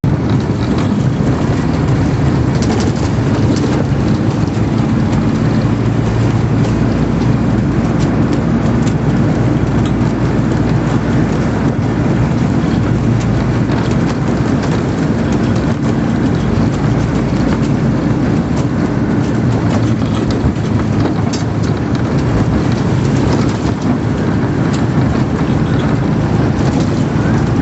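Steady road noise of a moving vehicle: engine hum under the rush of tyres and wind.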